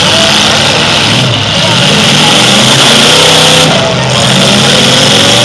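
Several demolition-derby cars' engines revving at once, their pitches rising and falling against each other over a dense, loud hiss.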